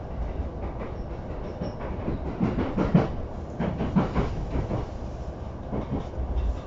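Train noise at a station platform: a steady low rumble, with a run of irregular knocks and clanks about two to four seconds in.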